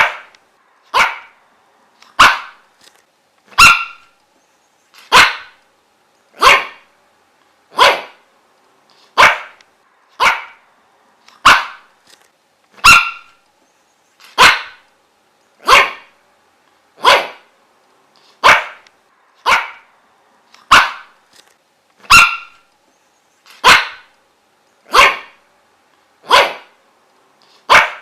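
A dog barking in single, separate barks at a steady pace of about one bark every second and a bit.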